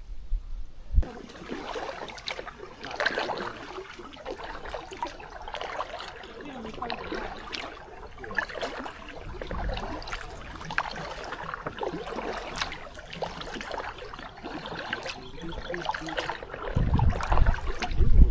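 Kayak paddle strokes in river water: blades splashing in and water trickling and dripping off them in irregular patters. A low rumble comes in near the end.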